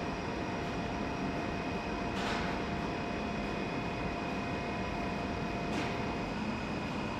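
Steady industrial machinery din from a hot-dip galvanizing line, with several constant whining tones, and two short hissing swells.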